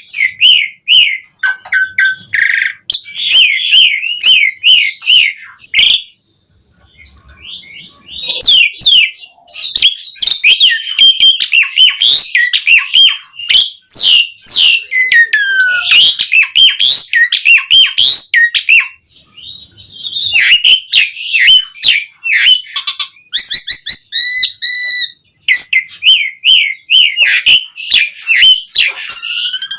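Asian pied starling singing in long, varied runs of quick chirps, whistles and clicks, broken by two short pauses. Near the end comes a brief buzzy repeated phrase.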